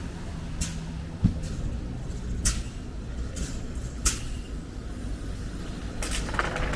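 Steady low rumble of city traffic, with crunching footsteps in snow at irregular intervals of about a second and a single dull thump about a second in.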